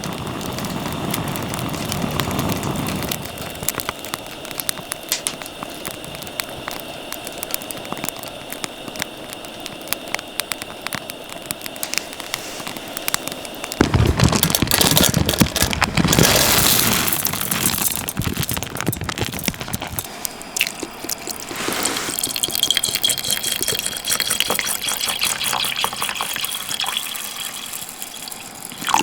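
Cooking over a wood fire: crackling with a steady sizzle from the pan, growing to a loud rushing sizzle from about 14 to 18 seconds in.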